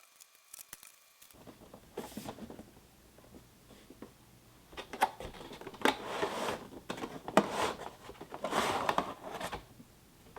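Crinkling and rustling of handled material in several bursts, with a few sharp clicks, loudest in the second half.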